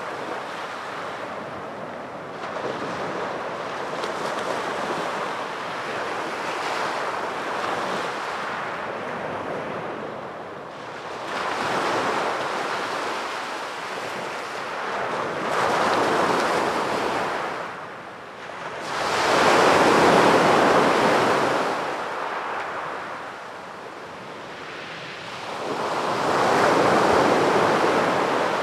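Sea waves washing onto a beach, a steady wash of surf that swells into louder breaking surges every few seconds, the strongest about two-thirds of the way through.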